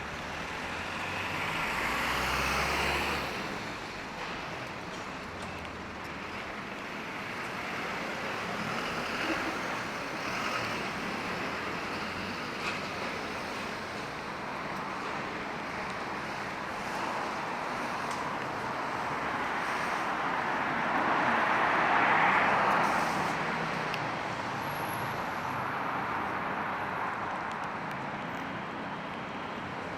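City street traffic on wet roads: a steady hiss of rain and tyres, with vehicles swelling past about two seconds in and again around twenty-two seconds.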